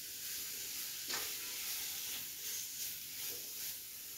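Sliced onions, green chillies and spice powders sizzling steadily in coconut oil in a nonstick pan, stirred with a wooden spoon, with one louder stroke of the spoon about a second in.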